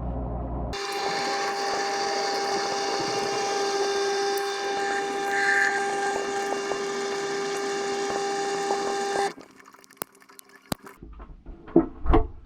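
KitchenAid dishwasher running: a steady hiss of spraying water over an even pump hum. It cuts off abruptly about nine seconds in, leaving a few sharp clicks.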